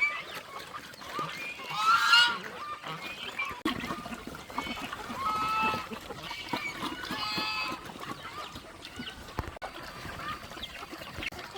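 Farm waterfowl calling, several pitched calls, the loudest about two seconds in, with more around five and seven seconds.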